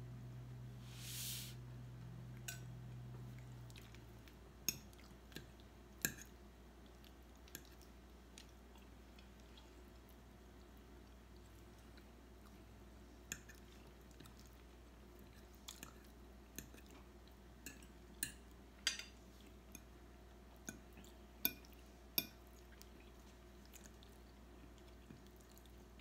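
Faint chewing of pasta with scattered sharp clicks of a metal fork against a plastic bowl. A low hum stops about four seconds in.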